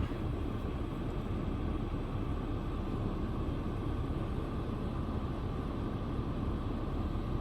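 Steady low vehicle rumble with a constant hiss, unchanging throughout.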